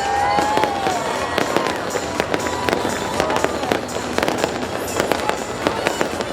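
Fireworks bursting: a dense, irregular run of sharp pops and bangs with crackling, continuing throughout.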